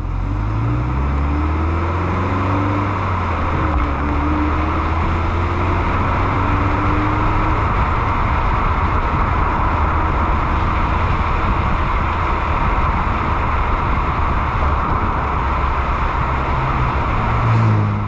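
Subaru Impreza WRX STI (GRB) on the move, its turbocharged flat-four running under steady road and wind noise. The engine note shifts as the revs change in the first several seconds, then holds steady.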